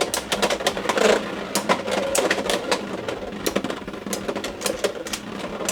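Two Beyblade X tops, Strike Hawk 4-80LF and Dran Dagger, spinning and battling in a plastic stadium: rapid, irregular sharp clacks of the tops colliding and scraping, with no steady rhythm.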